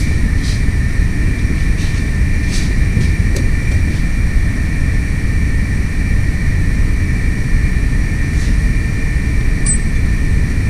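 A steady loud rumble with two steady high-pitched tones over it, and a few faint clicks now and then.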